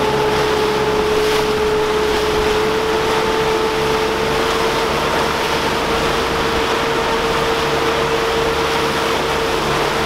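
A catamaran's engines running steadily under way, towing, with a held whine that creeps slightly higher in pitch over a rush of water and wind.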